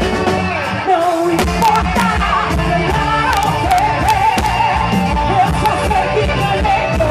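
Live band playing festa junina quadrilha music: drums keep a steady beat under a wavering melody line with singing. The low end drops out briefly about a second in.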